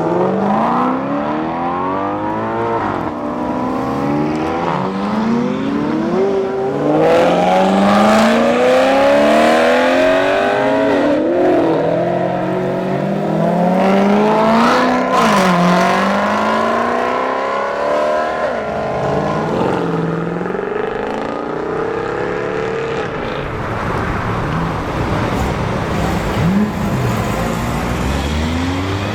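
Supercar and sports-car engines accelerating hard, one after another, each note climbing in pitch, dropping at a gear change and climbing again, with several cars often overlapping.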